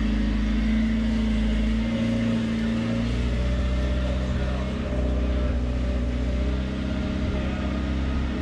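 Box truck engine running steadily at low speed.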